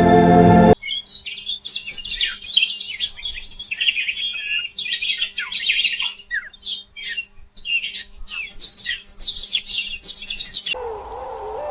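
Birds chirping and singing, many quick overlapping calls and trills, after sustained organ-like music cuts off about a second in. Near the end the birdsong stops and a wavering, lower tone begins.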